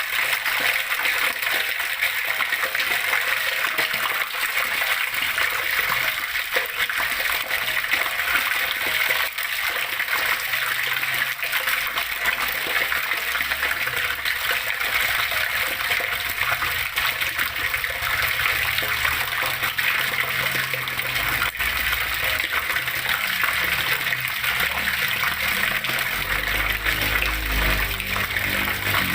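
Water flowing and splashing steadily, an even rushing spatter with no breaks. A low rumble swells briefly near the end.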